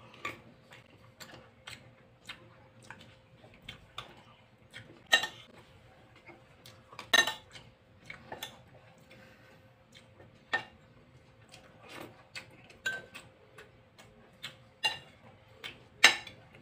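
Close-up eating sounds: chewing with wet mouth clicks and smacks, irregular and a few to the second, the sharpest about five, seven, ten and sixteen seconds in. A faint steady hum runs underneath.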